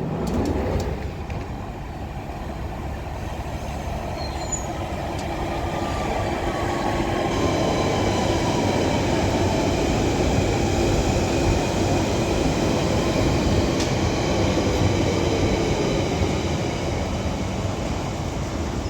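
London Underground Central Line 1992 stock tube train moving through the platform, growing louder to a peak in the middle and easing off near the end, with a high electric traction-motor whine joining about seven seconds in.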